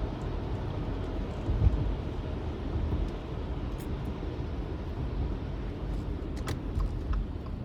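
Steady road and engine rumble heard inside a moving car's cabin on a snowy road, with a low thump about two seconds in.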